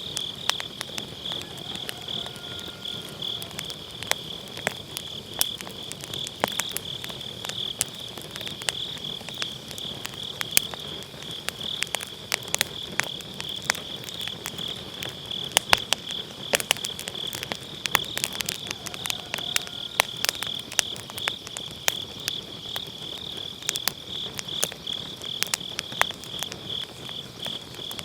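Wood fire crackling and popping in a round fire pit, with sharp irregular pops. Behind it, a steady chorus of autumn grass insects chirping in a fast, even trill.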